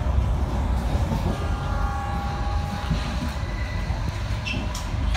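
Passenger train coach running on the line, with a steady low rumble. About a second in, a thin high wheel squeal starts and lasts for about a second and a half.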